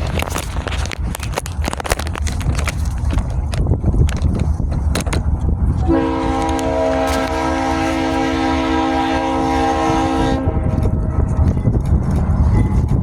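Locomotive air horn sounding one long blast of several tones at once, starting about six seconds in and holding for about four seconds, over the steady rumble and clicking wheels of a passing train.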